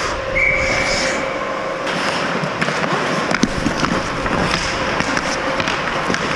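Ice hockey play: skate blades scraping the ice, with sharp clacks of sticks and puck throughout. A steady high tone sounds for about a second and a half near the start.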